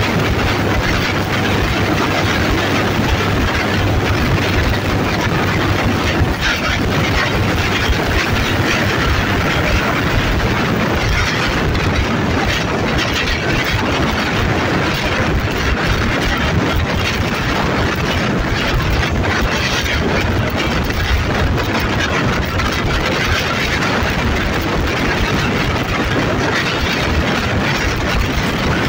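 Moving passenger train heard from the coach coupled directly behind an Alsthom diesel-electric locomotive: the locomotive's diesel engine running steadily under the constant noise of wheels on the track.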